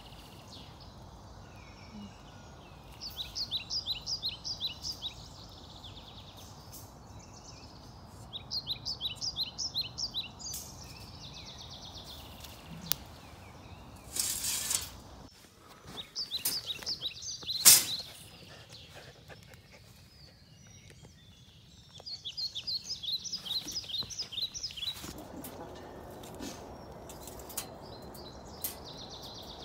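A songbird singing three times, each a quick run of high repeated notes lasting about two seconds, over a steady woodland background. Midway there is a burst of rustling and then a single sharp metallic clank from the wire cage trap as it is handled.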